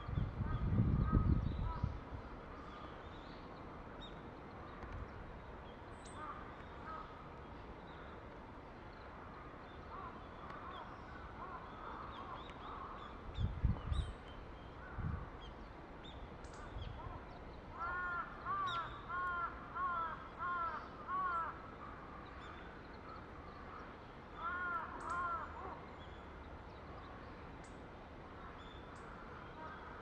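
Outdoor birdsong: a bird gives two runs of evenly repeated calls, about seven in quick succession past the middle and three more a few seconds later, over scattered faint high chirps of small birds. Low rumbling bumps come at the start and again near the middle.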